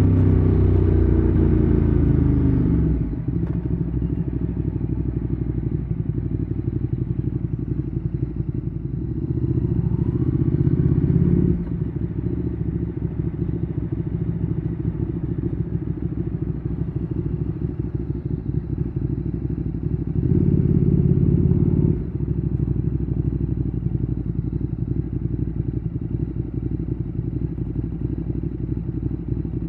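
Ducati Streetfighter 848's L-twin engine through a Termignoni exhaust, dropping in pitch as it slows over the first few seconds, then running steadily at low revs. It grows louder for a couple of seconds twice, about ten and twenty-one seconds in, and picks up again at the very end.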